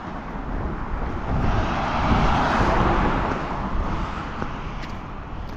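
A road vehicle passing, its tyre and road noise swelling to a peak about halfway through and then fading, over a steady low wind rumble on the microphone.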